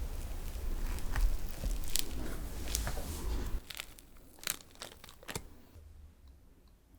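Close-miked crinkling and crackling with a low rumble from handling, for about three and a half seconds, then a few separate sharp crackles as it dies down.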